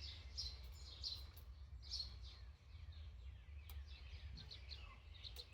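Small birds chirping in short repeated notes, about two a second at first, over a steady low hum, with a few faint clicks.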